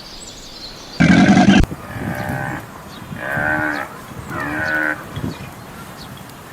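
Cattle mooing: a loud, short call about a second in, then three shorter calls in a row.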